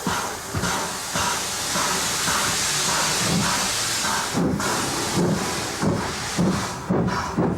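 Stroudley Terrier steam tank locomotive hissing steam, then starting away: about halfway through, exhaust beats begin and quicken.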